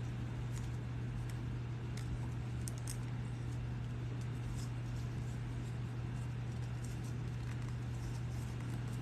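Steady low electrical hum, with a few faint, sparse small clicks of brass rivet parts being twisted together through leather.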